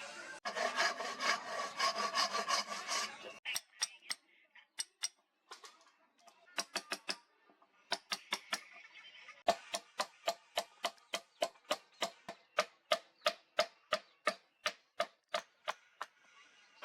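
Rhythmic hand-tool scraping strokes, like a file or saw worked back and forth: a quick dense run for the first three seconds, then separate even strokes that settle at about three a second.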